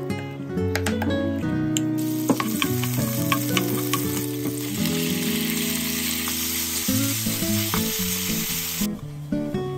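Garlic cloves frying in oil in a pan, sizzling, with a spatula clicking against the pan as they are stirred. The sizzle starts about two seconds in and cuts off sharply shortly before the end, over soft background music.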